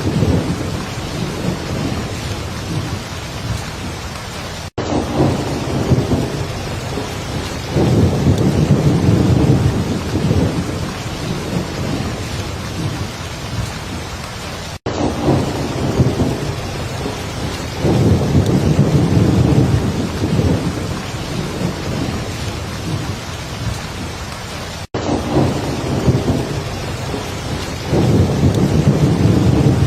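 Heavy rain falling steadily, with low rumbles of thunder swelling about every ten seconds. A brief dropout about every ten seconds marks the seam of a repeating loop.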